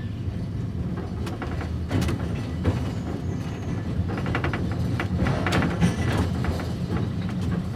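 Electric tram running under power with the controller on the second notch: a steady low rumble with scattered clicks and knocks from the wheels and running gear.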